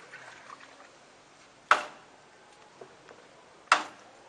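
Two short, sharp splashes of water about two seconds apart, over a faint steady hiss.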